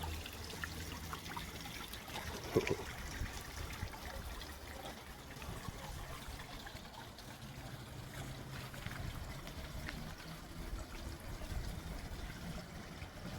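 Garden pond water trickling steadily, with a single brief knock about two and a half seconds in.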